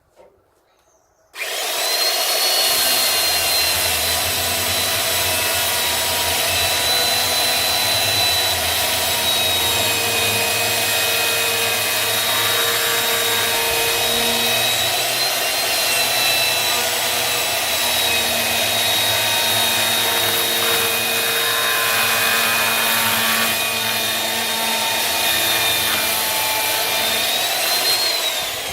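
Electric saw cutting through firewood logs: it starts suddenly about a second in and runs steadily, its motor whine sagging a little under load. The whine rises briefly near the end as the blade comes free.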